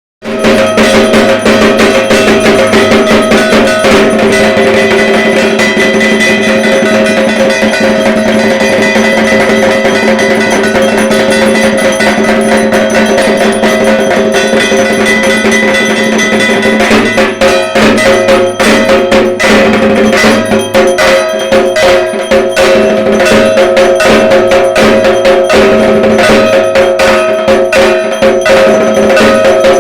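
Dhak drums beaten fast and without pause in a dense, driving rhythm, with a steady metallic ringing over the strokes. It starts abruptly right at the beginning, and the beat loosens for a few seconds past the middle.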